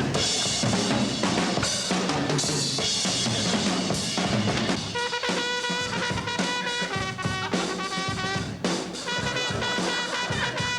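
Frantic live drumming on a full drum kit, bass drum, snare and crashing cymbals, as part of a wild rockabilly song. About halfway through, a run of short held high notes comes in over the drums, stepping between pitches.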